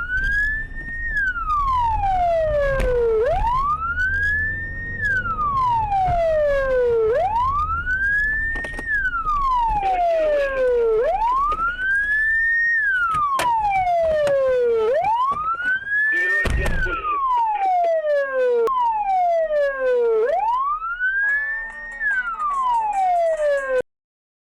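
Police car siren wailing, each cycle rising quickly and falling slowly, about one every four seconds, over a low rumble. A single knock comes about two-thirds of the way through, and everything cuts off suddenly just before the end.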